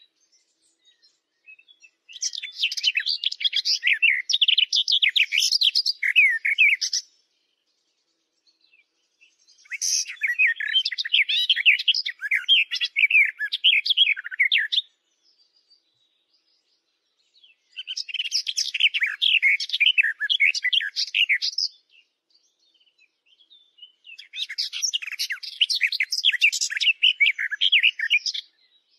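Birds chirping rapidly in four bursts of about four to five seconds each, starting and stopping abruptly with dead silence between them.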